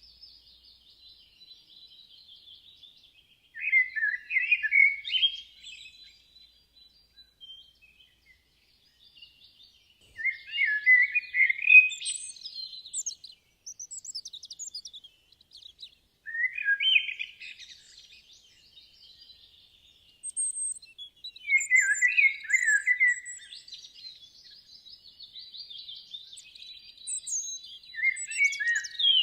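A songbird singing loud warbled phrases a few seconds long, five times, with quiet gaps between them. Fainter high, rapid twittering from other birds continues underneath.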